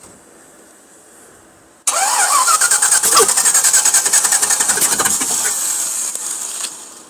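1975 Rolls-Royce 6.75-litre V8 cranked on the starter. It cuts in sharply about two seconds in with a short rising whine, cranks with a fast, even pulsing for about five seconds, then stops without the engine settling into an idle.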